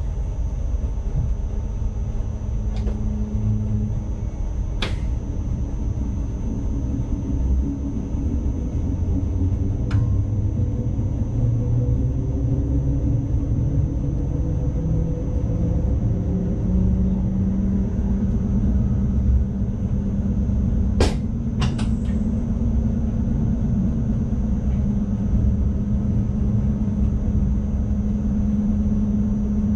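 Running noise of an ICMm electric multiple unit heard in the driver's cab: a steady rumble of wheels on track with a low hum that slowly rises in pitch through the middle. A few sharp clicks break in, two close together past the middle.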